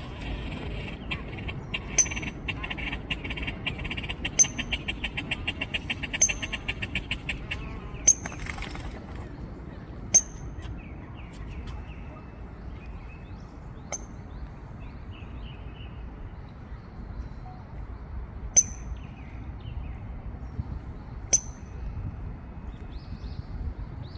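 Great crested grebes calling: a fast, rhythmic run of clicking notes for the first several seconds, then single sharp, high clicks every few seconds, over steady low background noise.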